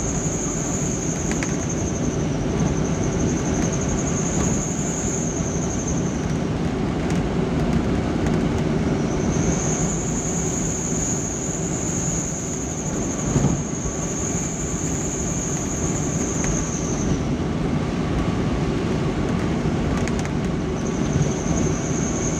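Steady engine and road rumble of a vehicle on the move. A thin, high, steady whine comes and goes in long stretches over it.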